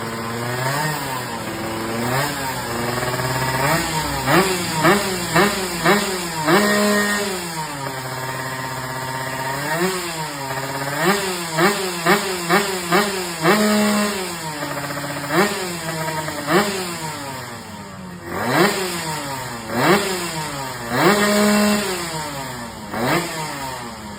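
Yamaha Force 1 two-stroke underbone motorcycle engine, built to 125cc underbone race spec, revved in repeated quick throttle blips: the pitch shoots up and drops back over and over, in rapid bursts of several blips, a couple held briefly high, settling back to idle between them.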